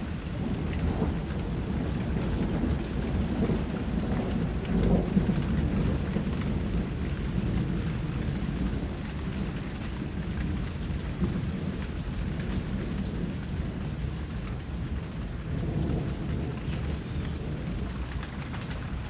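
Steady rain with low rolling thunder, swelling a few seconds in and again near the end.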